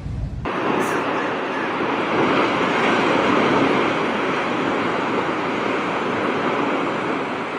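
A steady, loud rushing of water that starts abruptly about half a second in, replacing a deep low rumble.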